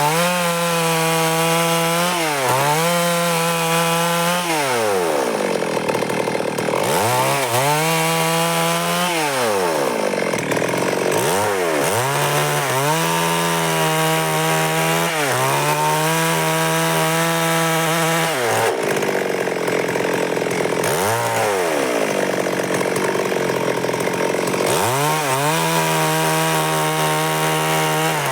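Stihl MS 382 two-stroke chainsaw cutting wood at high revs. Its engine pitch dips and climbs back every few seconds, with two longer drops in revs about five and nineteen seconds in.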